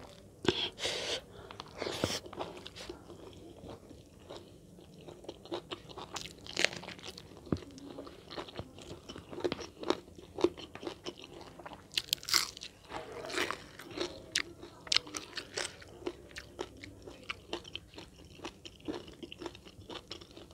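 A person eating crunchy food close to the microphone: irregular crisp crunching bites and chewing, louder a few times.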